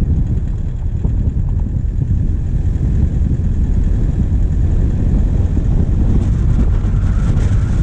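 Diesel vehicle engine running while driving, a steady heavy rumble picked up by a bonnet-mounted camera, with wind and road noise on the microphone; a hiss grows louder near the end.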